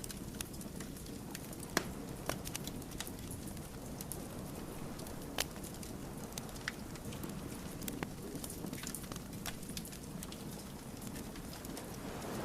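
Wood fire crackling: a steady low burning noise with scattered sharp pops and snaps from the logs. The loudest pops come just under 2 s and about 5.5 s in.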